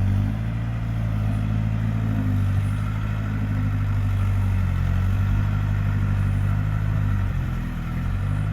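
Mitsubishi Canter truck's diesel engine running steadily under load on a steep uphill climb, its pitch sagging briefly near the end before picking up again.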